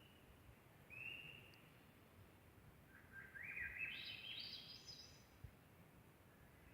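Faint forest birdsong: a short whistled note about a second in, then a song of notes climbing upward in steps, over a low background hiss.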